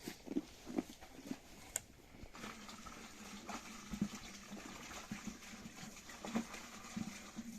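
Hand milking: milk squirting into a pail in a regular rhythm, about two squirts a second. A steady low hum joins a little over two seconds in.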